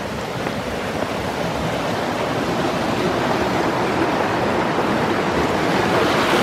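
Rushing water of a stream at a swimming hole: a steady flowing hiss that grows gradually louder toward the end.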